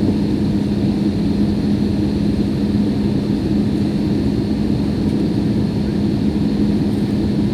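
Steady cabin noise inside a jet airliner on approach to land: engine and airflow noise with a constant low hum.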